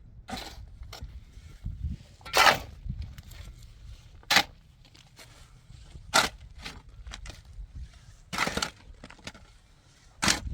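A series of crunching knocks or scrapes, about one every two seconds, the loudest about two and a half seconds in, over a low background rumble.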